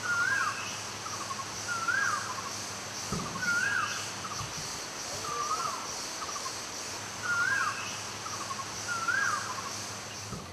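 A bird calling six times at even spacing, about every two seconds. Each call is a quick run of ticking notes followed by a rising-and-falling whistle. Under it runs a steady high buzz of insects.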